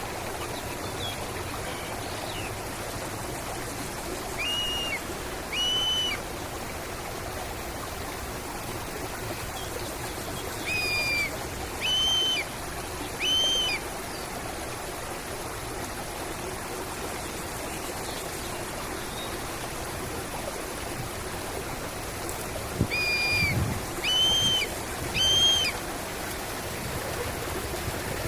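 A bird calling three times, each in a group of two or three clear, arched whistled notes about a second apart, over the steady rush of a flowing stream.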